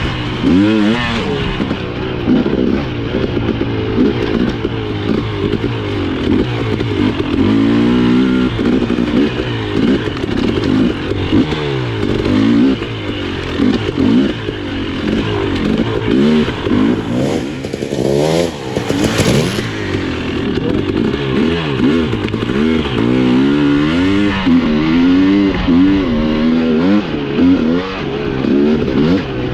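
Husqvarna TE 300i single-cylinder two-stroke engine revving up and down over and over as the dirt bike is ridden. There is a brief hiss a little past halfway.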